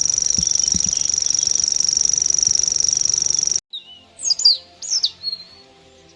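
A steady high-pitched buzz cuts off suddenly about three and a half seconds in. A songbird then sings a few quick whistled chirps that sweep up and down, over soft background music.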